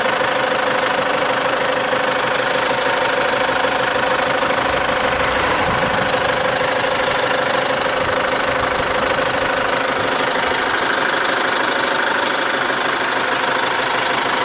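Chevrolet Captiva's engine idling steadily, heard close up, with a brief low swell about five seconds in.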